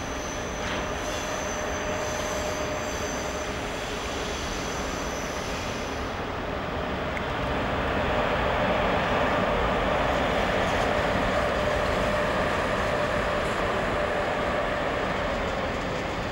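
A train rolling through a railway station, its running noise swelling about halfway through and easing off near the end.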